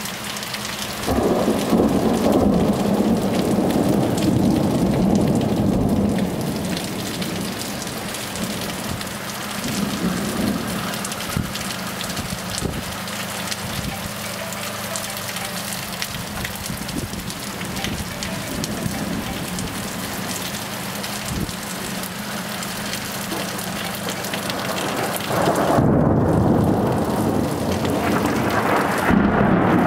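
Thunderstorm: heavy rain falls steadily throughout. Rolling thunder rumbles twice, once from about a second in for several seconds, and again building near the end.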